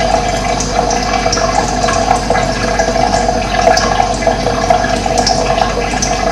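Steady rush of running water, with brief high bird chirps now and then.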